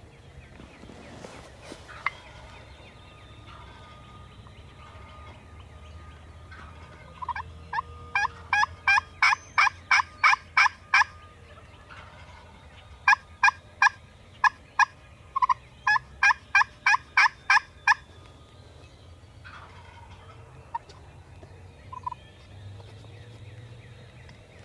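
Hunter's turkey call giving three runs of sharp hen yelps, the first a long string of about a dozen notes and the second and third shorter, calling to a gobbler.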